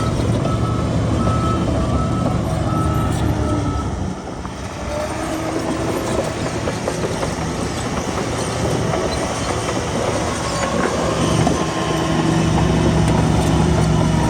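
Heavy diesel earthmoving machinery running, with a reversing alarm beeping about twice a second for the first few seconds and then stopping. The engine eases off briefly around four seconds in and pulls harder again near the end.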